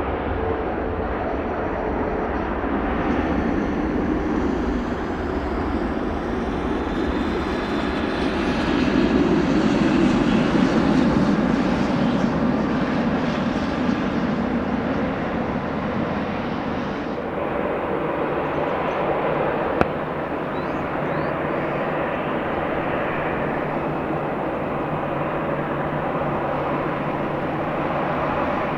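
Aircraft engines passing as a steady rushing noise that swells to its loudest about ten seconds in, with a faint rising whine before the peak. The sound changes abruptly about 17 seconds in.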